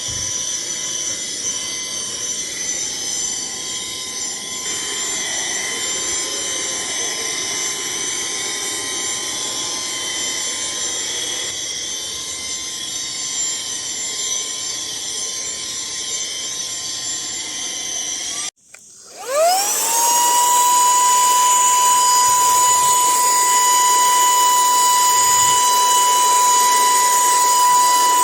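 Cordless handheld vacuum's brushless motor running with a steady high-pitched whine. About two-thirds of the way through it cuts off, restarts, spins up within a second and runs on louder.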